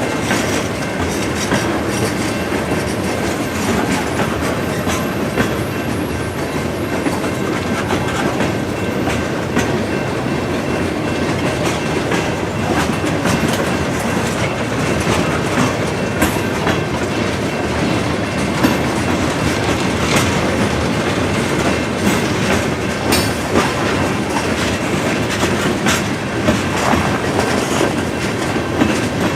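Freight train cars rolling steadily past, their wheels clicking over the rail joints.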